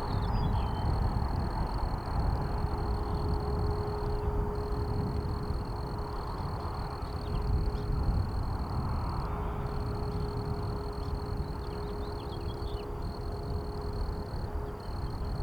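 Jet noise from the Boeing P-8A Poseidon's two CFM56 turbofans as the aircraft climbs away after a touch-and-go: a steady, deep rumble that slowly fades.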